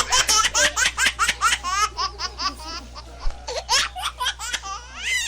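A young child laughing: a long run of short, high-pitched laughs, about four or five a second.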